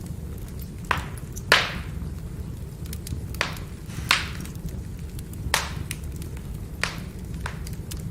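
Burning firewood crackling: about seven sharp snaps and pops, the loudest about one and a half seconds in, over a steady low rumble of the fire.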